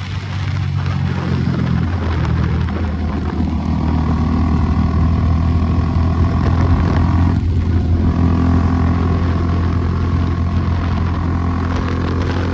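Suzuki Gixxer SF250's single-cylinder engine running through an aftermarket Akrapovic exhaust while the bike is ridden, its note climbing over the first couple of seconds and holding strong, with a brief dip about seven and a half seconds in.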